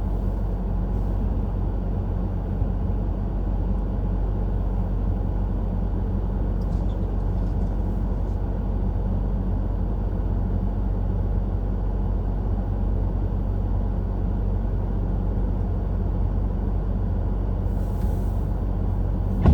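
Car driving along a snow-covered road: a steady low rumble of engine and tyres that holds even throughout.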